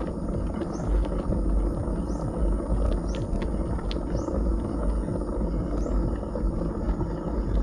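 Wind buffeting a helmet- or bike-mounted action camera's microphone during a bicycle ride, a steady low rumble mixed with tyre noise on the road. Faint short high chirps recur about once a second over it.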